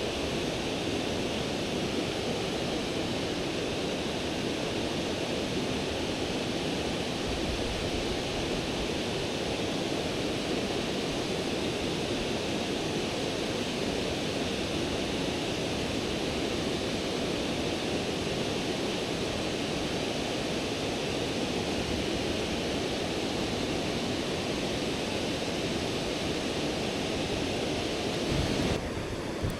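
Steady rush of river current flowing over rocks, an even unbroken water noise.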